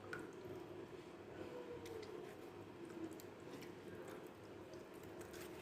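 Faint scattered clicks and light ticks of a knife cutting raw chicken held in the hand, over quiet room tone.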